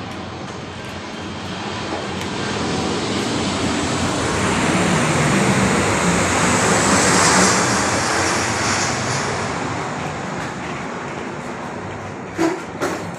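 Airplane flying low overhead: a broad, steady roar that swells to its loudest about halfway through and then fades as it passes. Two short knocks come near the end.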